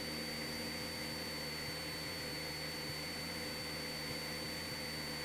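Cessna 172SP's four-cylinder Lycoming engine and propeller droning steadily in flight, heard faintly through the aircraft's intercom feed, with a thin steady high whine over it.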